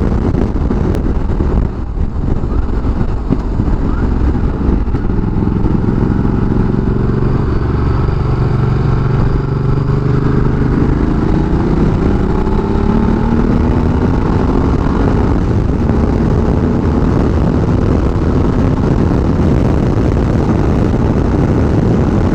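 Ducati Multistrada 1200S V-twin engine running under way, its pitch climbing through the middle as the bike accelerates. Heavy wind rushes across the helmet microphone.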